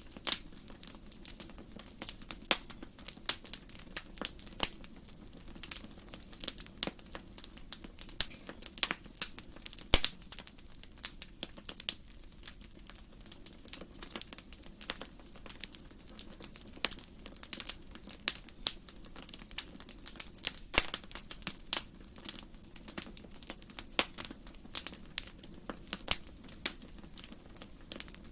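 Wood fire crackling in a fireplace: irregular sharp pops and snaps, several a second, over a soft steady low rumble. One snap about ten seconds in is louder than the rest.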